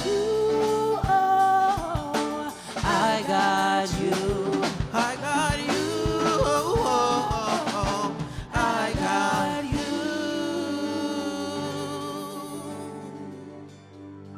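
Live soul band with singers ending a song: wordless vocal runs over a held chord and drum hits, then the last chord rings out and fades away over the final few seconds.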